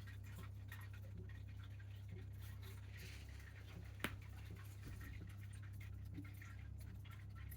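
Quiet room tone: a steady low hum with faint scattered ticks and one sharp click about four seconds in.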